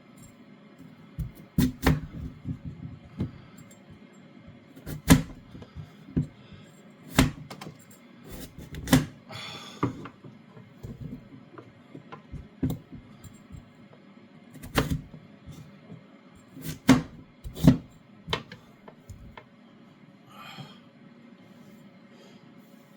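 Kitchen knife cutting carrots on a chopping board: single sharp thuds at an uneven pace, one every second or two, with a few closer pairs of cuts. The cuts stop a few seconds before the end.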